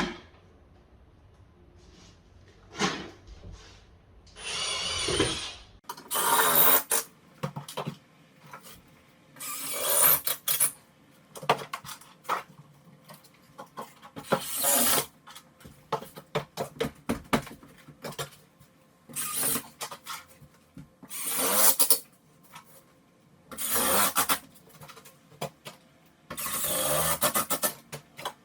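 Drill/driver run in short bursts, about eight times, driving screws through loose plaster into the wood behind it to pin the plaster back tight, with small clicks and handling noise between the bursts.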